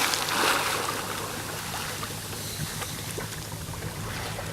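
Water sloshing and settling after a diver's splash entry, fading over the first second, over a steady low hum from an idling boat engine, with a few faint drips and ticks.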